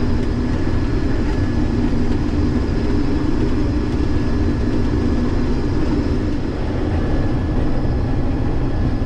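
Case IH 2388 combine running steadily while threshing wheat: an even mechanical drone with a low hum and a faint high steady whine.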